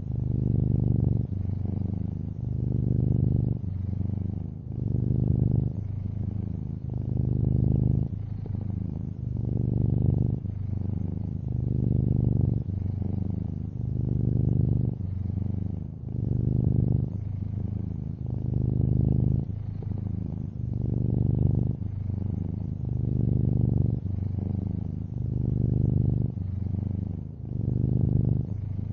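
Long-haired orange tabby cat purring steadily, a low rumble that swells and eases with each breath, about every one and a half to two seconds.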